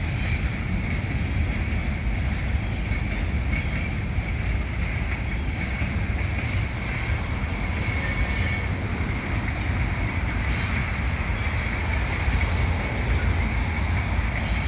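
Freight train cars rolling past on the rails, a steady rumble with a sustained high wheel squeal. Brief sharper squeals come about halfway through.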